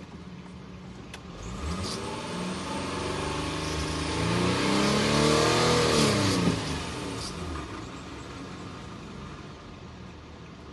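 Infiniti EX35's 3.5-litre V6 engine revved once: it climbs steadily from idle for about four seconds, holds near the top briefly, then drops back to a steady idle.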